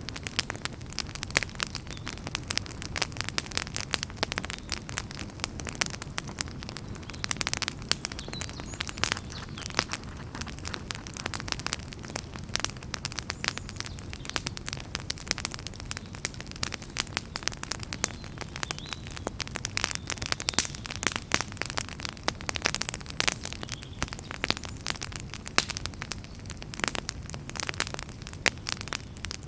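Wood fire crackling and popping: dense, irregular sharp pops and snaps over a steady low rumble of burning.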